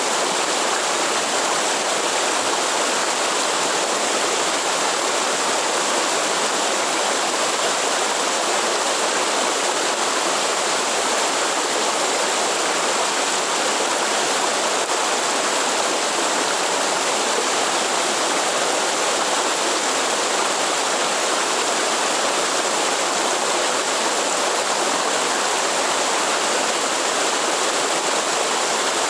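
Waterfall: falling water making a steady, unchanging sound.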